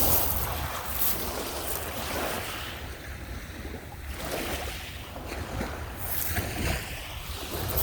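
Small lake waves washing onto a sandy beach, with wind rumbling on the microphone.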